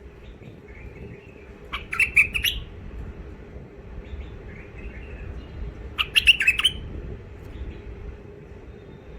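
Bulbuls singing: two short, harsh chattering phrases, about two seconds in and again about six seconds in, with fainter soft warbles between, over a faint steady hum.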